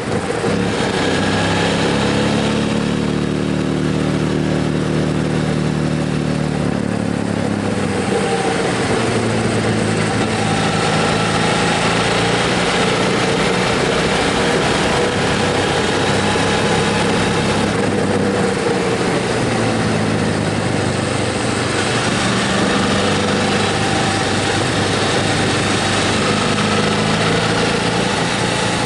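Motorcycle engine running steadily under way, with wind noise across the microphone; the engine note drops about seven seconds in, then holds.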